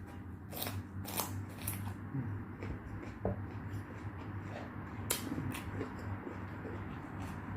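Eating sounds close to the microphone: chewing with a few sharp crisp clicks or crunches, three in the first two seconds and another about five seconds in, over a low steady hum.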